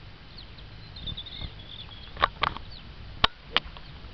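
Faint birds chirping in the background, with four sharp clicks: two close together a little over two seconds in and two more about a second later.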